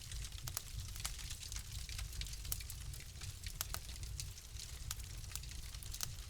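Fire crackling in a fireplace: irregular sharp pops and snaps, several a second, over a steady low rumble and hiss of the flames.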